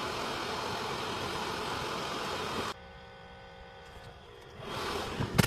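Steady mechanical rushing noise with a hum that cuts off abruptly about halfway through, leaving a quieter steady hum. Near the end a rising rush returns, followed by a sharp click.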